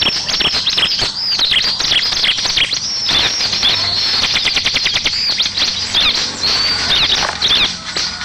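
Bar-winged prinia (ciblek) song: a fast, unbroken stream of high arched chirps, with a quick rattling trill about halfway through. It is a lure recording meant to prompt captive ciblek to answer and sing.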